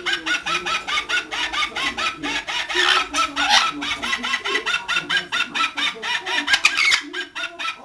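A parrot giving a fast, unbroken run of short clucking calls, about seven a second, each with a quick upward lilt.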